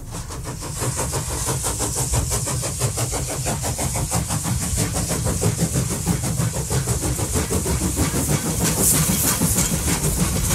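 Steam locomotive chuffing in a quick, even rhythm, with a steady hiss of steam over it.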